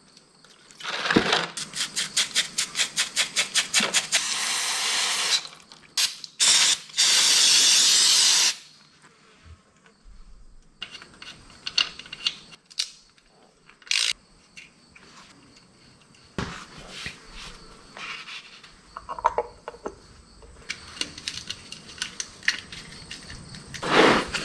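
Aerosol cleaner hissing in several short bursts, the longest just over a second, sprayed onto a metal motorcycle oil filter screen to clean it. Before the spraying there is a quick run of short scrubbing or clicking strokes, about five a second, and after it light clicks and taps of the parts being handled.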